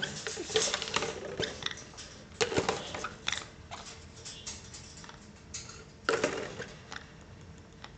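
Irregular clicks, taps and scuffles, loudest in two short clatters about two and a half and six seconds in.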